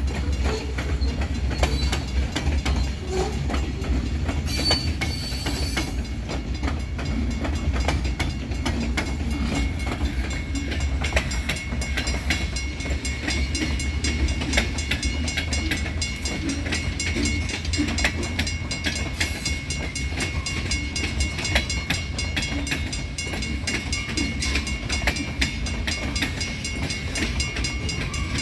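Great Lakes Central Railroad train rolling past: a steady low rumble with a continuous clickety-clack of wheels over the rail joints. A thin, steady high-pitched squeal joins about eleven seconds in.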